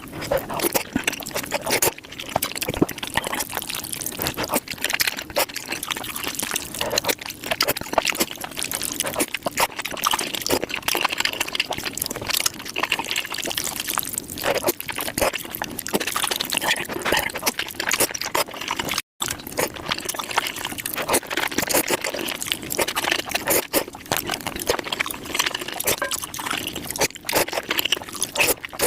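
Close-miked eating sounds played back at five times speed: a dense, rapid run of wet slurps, smacks and chewing clicks from eating saucy food. A brief dropout about two-thirds of the way through.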